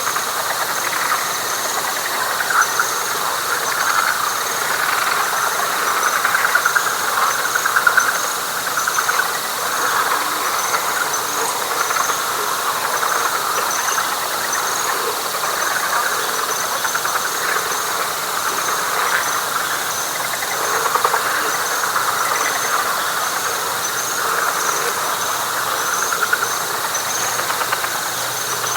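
Night chorus of many frogs trilling over one another in a wet pine flatwoods. A steady high insect drone runs beneath it, with a short high chirp repeating about twice a second.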